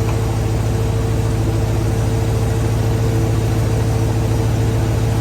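Ford 351 Windsor V8 running steadily at an even speed, with the alternator charging at about 14.5 volts.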